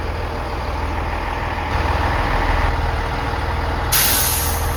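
Class 165 diesel multiple unit's engine running at the platform, growing louder about two seconds in. Near the end a sudden loud hiss cuts in.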